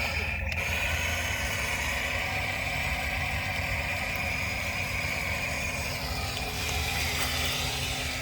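Remote-controlled toy excavator's electric motors running, a steady whir with a high whine held at an even pitch.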